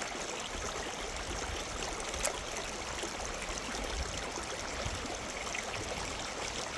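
Steady rush of running water, with one sharp click a little over two seconds in.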